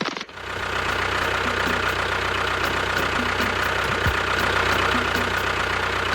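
A motor running steadily with an even, fast low pulse, starting up after a short dip at the very beginning.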